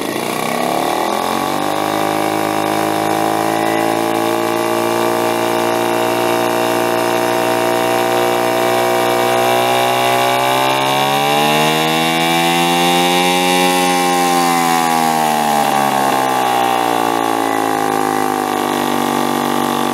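1971 Johnson 4hp Seahorse two-stroke outboard motor running, throttled up from tick-over in the first couple of seconds and held steady. About halfway through the revs climb higher, then ease back down near the end.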